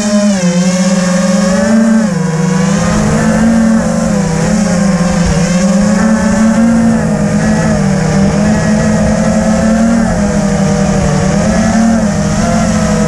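FPV drone's motors and propellers whining steadily, the pitch rising and falling every second or two as the throttle changes, with low rumbling wind noise underneath.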